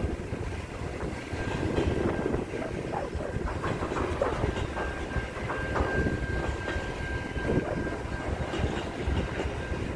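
Container freight train's wagons rolling steadily past, wheels rumbling and clattering over the rail joints. A thin, steady high whine runs through much of it, clearer from about halfway in.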